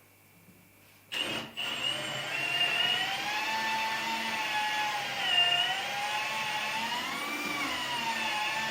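An electric power tool's motor starts up about a second in and runs continuously, its whine slowly wavering up and down in pitch as the speed or load changes.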